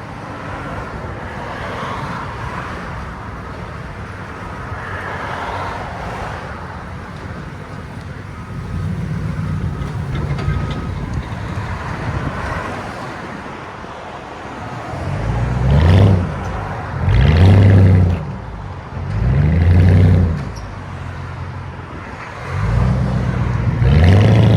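Lincoln Town Car's 4.6-litre V8 through true dual straight pipes, with no mufflers, running steadily at first. In the last ten seconds it is given four hard bursts of throttle, each rising and falling away.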